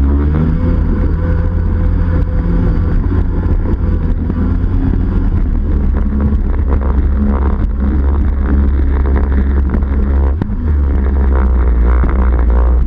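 Yamaha 701 two-stroke twin of a Wave Blaster personal watercraft, breathing through a Riva aftermarket pipe and waterbox, running loud and steady, with a brief drop about ten seconds in.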